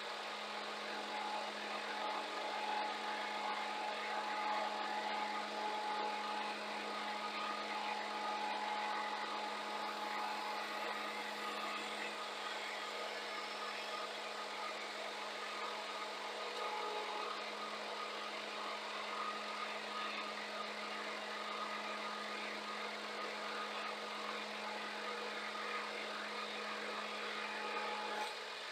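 Scania G410 truck's diesel engine running steadily, with a constant low hum that cuts off shortly before the end.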